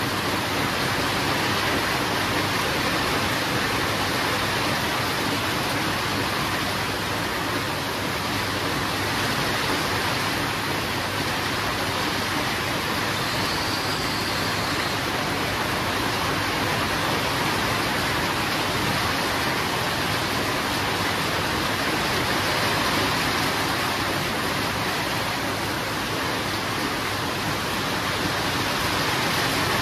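Steady rain falling: an even, dense hiss.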